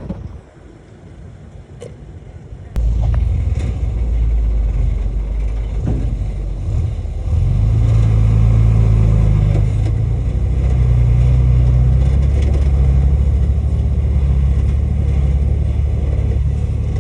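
Heavy diesel earthmoving machinery running close by: a loud, steady low engine rumble that comes in suddenly about three seconds in and grows heavier about seven seconds in.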